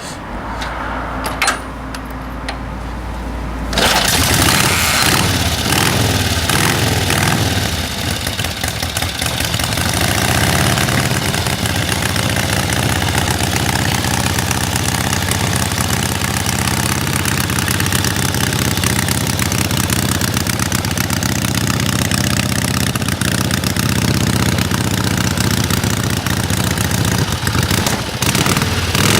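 Indian Big Base Scout 648's V-twin engine starting about four seconds in, running unevenly at first, then settling into a steady run.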